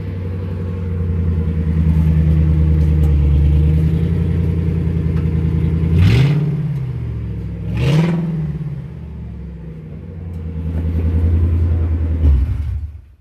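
1997 Ford F-150 engine idling through its blown-out glass pack mufflers, with two quick revs about halfway through and a slower swell near the end before it stops suddenly.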